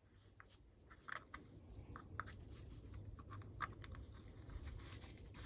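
Faint light clicks and scrapes of small carburettor parts being handled and fitted by hand, a few a second, with a low steady hum underneath.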